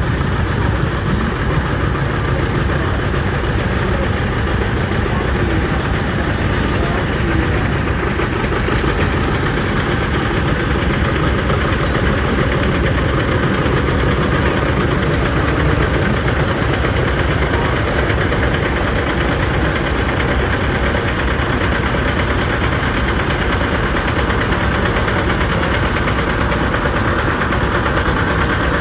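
Tractor engines running steadily at low speed, a continuous engine drone.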